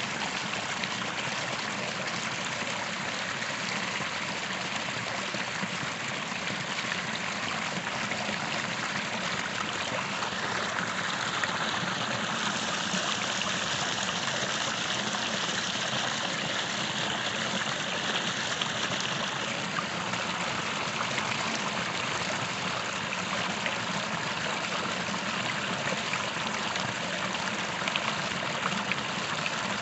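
A creek's water running steadily over rocks, a continuous rushing and trickling that swells slightly in the middle.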